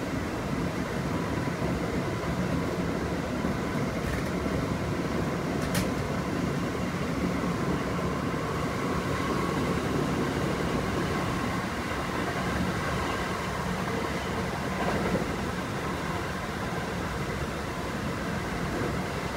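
Kintetsu 5800 series electric train running at speed, heard from inside the passenger car: a steady rumble of wheels and running gear with faint steady tones over it. One sharp click about six seconds in.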